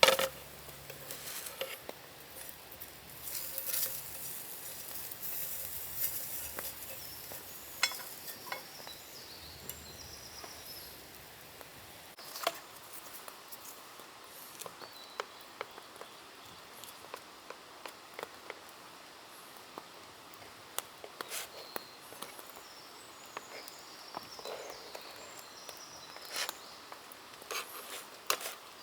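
Soft sizzling from camp cooking over a fire, with scattered sharp crackles and clicks and a louder hissy stretch about three to seven seconds in.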